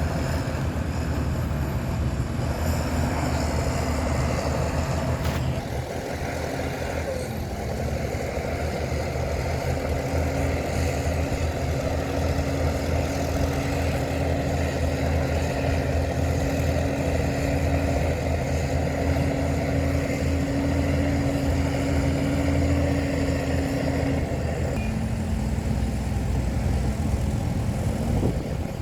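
Heavy diesel engine of earthmoving machinery running steadily. Its pitch shifts about five seconds in, holds even for a long stretch, then drops near the end.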